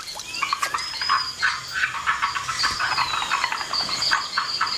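A chorus of frogs calling, many short calls repeating rapidly, with a thin, high, wavering trill above them.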